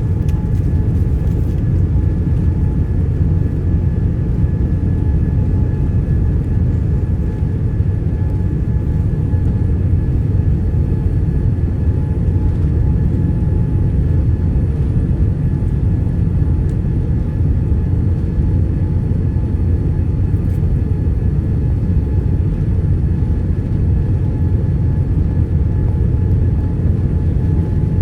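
Steady low rumble of a Boeing 787-9's engines heard inside the cabin, with a faint steady whine on top.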